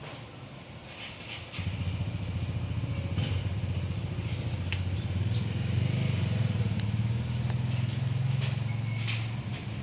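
A motor engine comes in sharply about a second and a half in and keeps running with a steady low hum, with birds chirping now and then.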